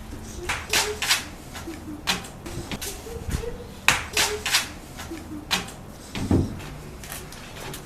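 A dozen or so irregular sharp knocks and clatters, with a few brief faint squeaks between them.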